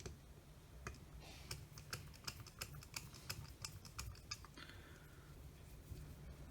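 A run of light, irregular clicks and taps, several a second, from a small screwdriver working on the screws that hold a drill's circuit board to the motor coils, with a brief scrape about five seconds in.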